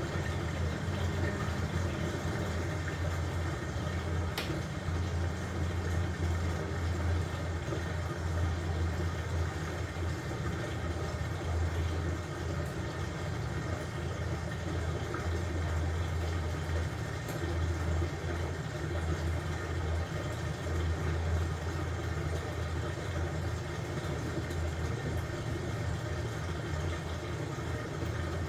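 LG washing machine running with a load of blankets: a steady low motor hum with the drum churning. A slightly higher hum drops away about two seconds in.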